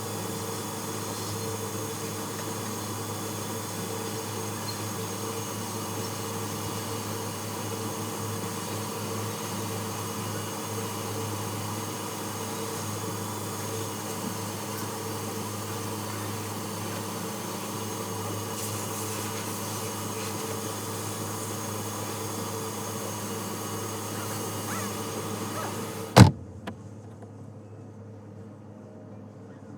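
Steady mechanical hum with a constant low tone, ended by a single loud click about 26 seconds in, after which only faint hiss remains.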